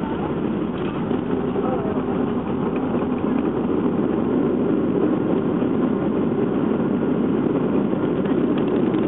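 Cabin noise inside a Boeing 737-400 during landing: a steady rumble of engines and rushing air, growing slightly louder a few seconds in.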